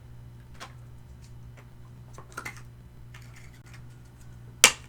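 Close-up eating sounds of crispy Korean fried chicken: scattered small crunches and mouth clicks, with one loud sharp click near the end, over a steady low hum.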